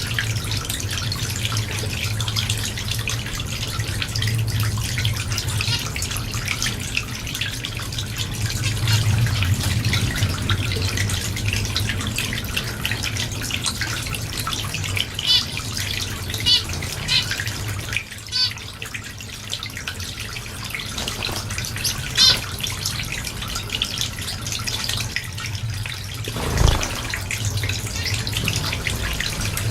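Small cage finches chattering with many short chirps and a few louder calls over a steady low hum, with a brief thump near the end.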